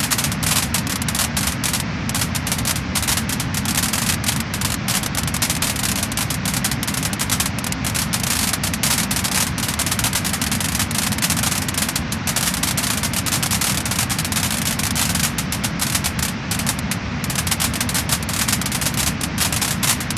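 Wood fire crackling and popping in a fireplace: a dense, steady stream of sharp crackles over a low rush of flame.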